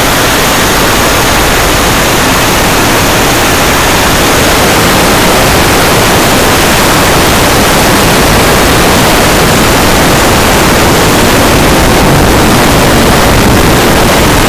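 Very loud, steady machinery noise of a passenger ship's engine room, a dense even roar of running engines and machinery that overloads the microphone into a hiss-like wash.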